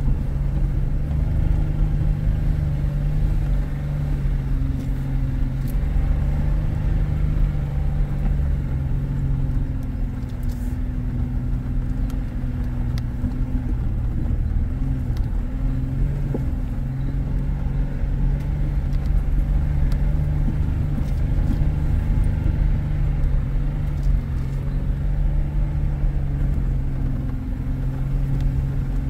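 Four-wheel-drive vehicle's engine running steadily at low, even revs over a low rumble, with a few faint clicks.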